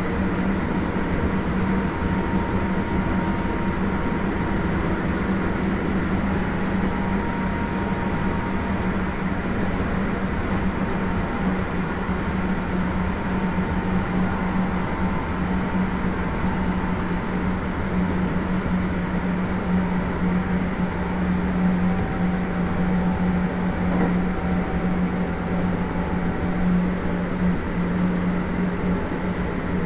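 Kintetsu 1420 series electric train running at steady speed: a continuous rumble of wheels on rail with a steady low hum and faint thin whines over it, drifting slightly in pitch.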